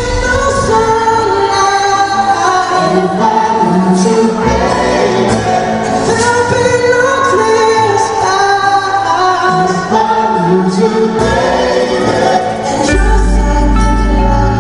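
A live band playing a pop ballad with sung vocals. The bass comes in heavily near the end.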